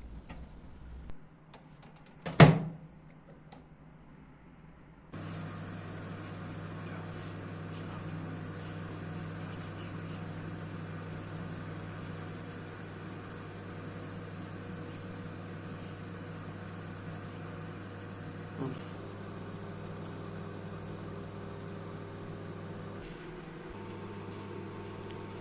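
A microwave oven door shuts with a sharp clunk, and about three seconds later the oven starts and runs with a steady hum.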